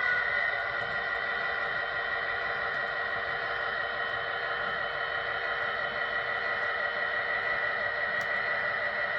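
HO scale model locomotive running steadily: a continuous engine-like drone with several held tones.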